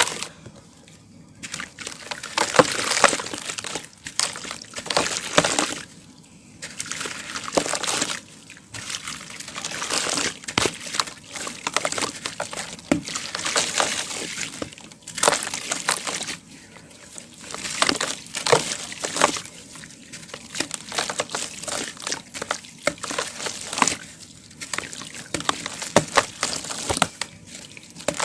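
Dry powdered cement crumbled into water, coming in repeated bursts of crackling, trickling and splashing every two to three seconds, with short quieter gaps between them.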